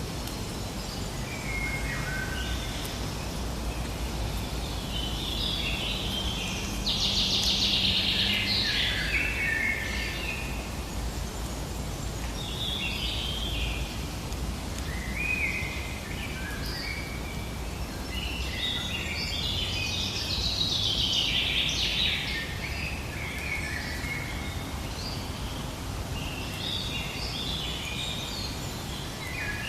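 Birds singing in several warbled bouts, loudest about seven to nine seconds in and again around twenty seconds in, over steady low background noise.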